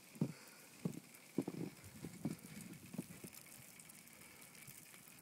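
Footsteps crunching through snow, a handful of soft, irregular steps about half a second apart that stop about three seconds in, over a faint steady hiss.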